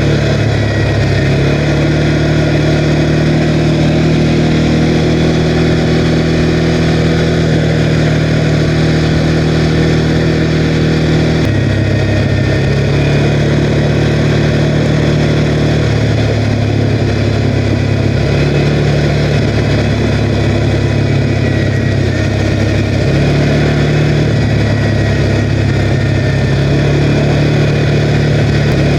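CFMOTO Cforce 520L ATV's single-cylinder engine running steadily while riding, its pitch dropping about a third of the way in and shifting a few more times as the throttle changes.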